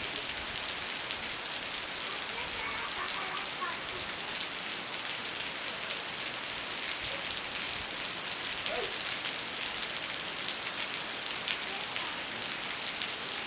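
Steady rain falling: a dense, even hiss with many separate sharp drop hits heard through it.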